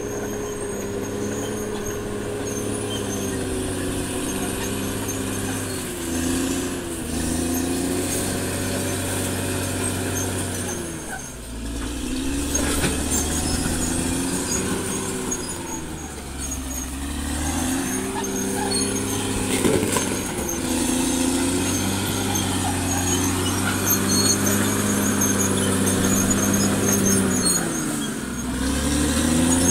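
Caterpillar D6R XL bulldozer's diesel engine working under load, its pitch rising and falling again and again as it pushes and eases off. A thin high whine rides over it, bending with the engine.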